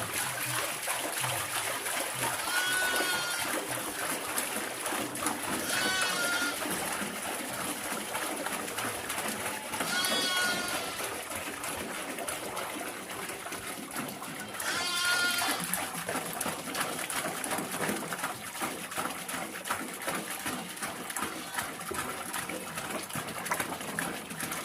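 Sheep and goats of a mixed herd bleating: four separate quavering calls, a few seconds apart, over a background of small rustles and knocks.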